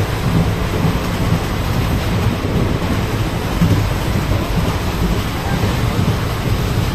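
Steady, loud low rumble and rattle of an Indian passenger train coach running on the rails, heard from inside the coach.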